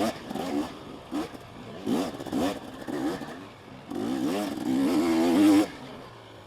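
Two-stroke KTM 250SX dirt bike engine revving in short bursts, its pitch rising and falling with the throttle, with a longer, louder rev about four seconds in.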